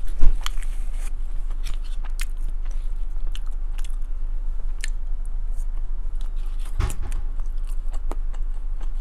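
Close-miked chewing and wet mouth clicks from eating chili cheese fries and a chili cheese dog, picked up by a clip-on lapel microphone. A thump comes about a third of a second in and another about seven seconds in.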